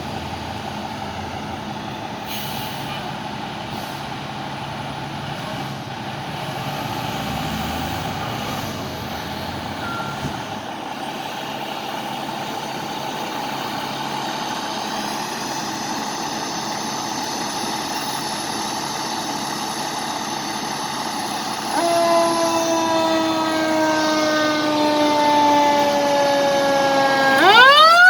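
Fire truck diesel engines running, then a fire truck siren starts about three-quarters of the way in: a steady tone that sags slightly, then sweeps sharply up in pitch near the end, the loudest part.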